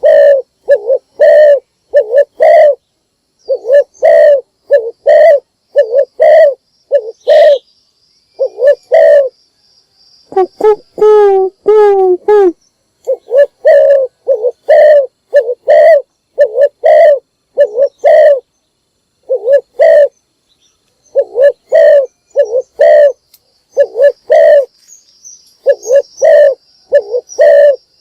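Spotted dove cooing over and over in quick phrases of low, hollow notes, a lure call for drawing in wild doves. About ten seconds in it gives a different, wavering rolling call for a couple of seconds before the cooing resumes.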